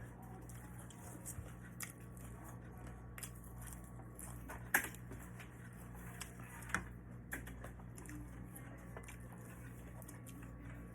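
A person eating quietly: chewing and small clicks of a spoon or fork on a plate, with the sharpest clicks about five seconds in and again near seven seconds, over a steady low hum.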